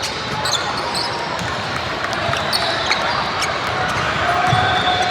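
Steady crowd chatter echoing in a gym during a game, with short sharp sounds of play scattered through it.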